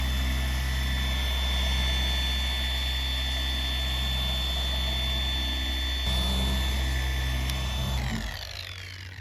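Electric car polisher switched on and running steadily at speed, buffing swirl marks out of the paint, then switched off about eight seconds in and winding down with a falling whine.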